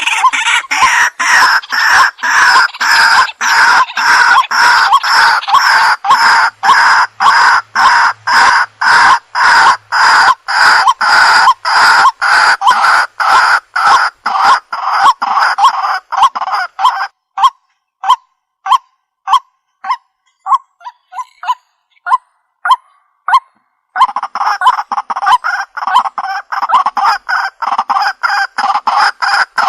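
Waterhen (jal murgi) calling: a fast run of short, harsh notes repeated about two to three times a second. About halfway through it thins to a few scattered single notes with short pauses, then picks up into the rapid run again near the end.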